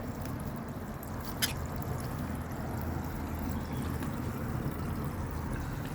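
Small bird-bath fountain running, a steady trickle of water, with a brief click about one and a half seconds in.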